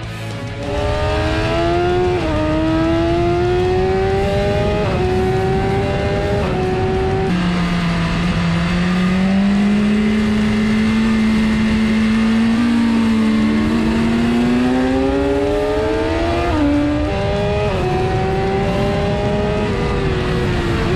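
Four-cylinder superbike engine at full throttle on a race track, revving up through the gears: the pitch climbs and drops sharply at each upshift. In the middle it holds a lower, slowly rising note, and near the end it steps down through downshifts.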